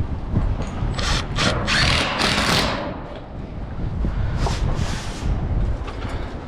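Harsh scraping in two spells, the first about a second in and the second near the middle, as a sheet of steel is worked against the barn's wooden wall, with wind rumbling on the microphone.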